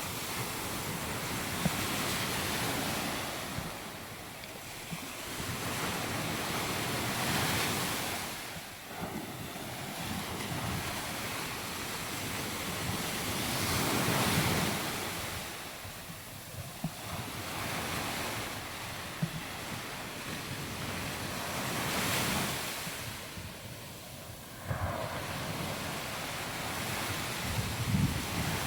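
Surf breaking and washing up on a beach, swelling about every six to seven seconds, with wind buffeting the microphone.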